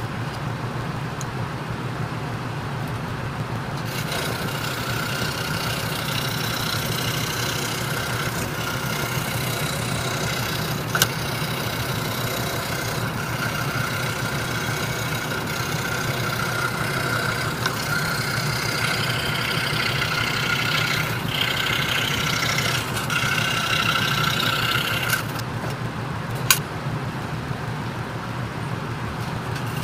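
A 26-inch RBI Hawk scroll saw running steadily, its 5-0 skip-tooth blade cutting Baltic birch plywood from about four seconds in until a few seconds before the end, while the motor hum carries on alone before and after. Two sharp clicks, one near the middle and one near the end.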